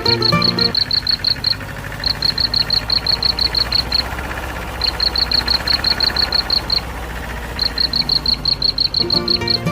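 A small motor running steadily with a low hum. Over it come high chirps in fast trains of about eight a second, each train lasting a second or two.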